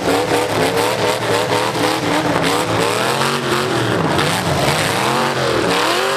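Several V8 demolition derby cars revving hard, their engine notes rising and falling over and over as they push against each other. Knocks and crunches of car bodies colliding come through among the engine noise.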